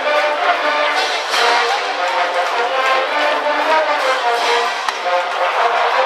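High-school brass band cheering section playing a baseball cheering song, with trumpets and trombones carrying the melody.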